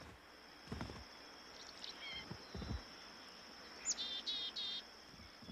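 Steady high insect drone with a few short bird chirps: a brief pair about a third of the way in and a quick run of three or four wavering chirps past the middle. Two soft low thumps occur in the first half.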